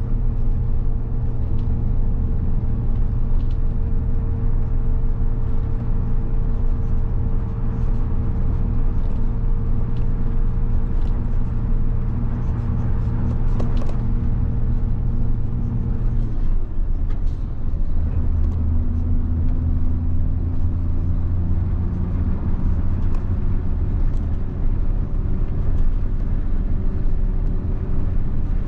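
Mitsubishi Fuso bus's 7.5-litre diesel engine running steadily under way with a low rumble. A little past halfway its note drops, then slowly climbs again.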